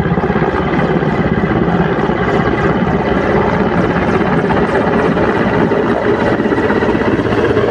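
Helicopter in flight, its rotor beating in a rapid, steady pulse.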